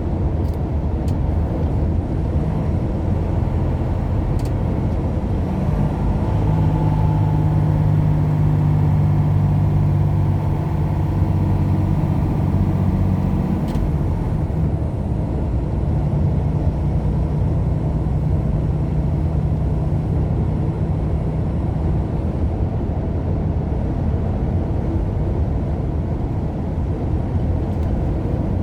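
Truck engine and road noise heard from inside the cab while driving: a steady low drone, with the engine hum swelling for several seconds at a time partway through.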